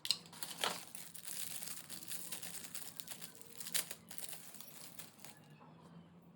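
Packaging crinkling and rustling as it is handled, with a few sharper crackles, stopping about five seconds in.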